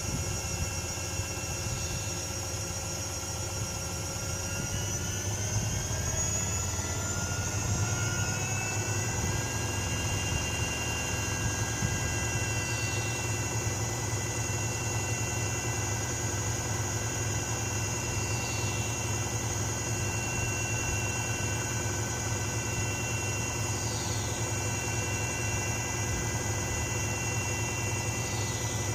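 Privileg Sensation 9245 washing machine spinning: the motor's whine rises in pitch a few seconds in as the drum speeds up, then holds steady at speed over a low hum.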